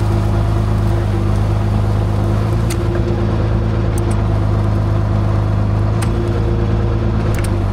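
John Deere tractor engine running steadily with a loud, even low hum, with a few faint clicks over it.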